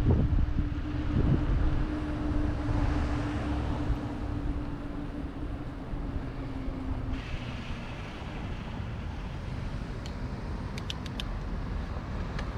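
Wind buffeting the microphone of a camera on a moving bicycle, as a heavy rumble. A steady hum runs beneath it and stops about seven seconds in, and a few sharp clicks come near the end.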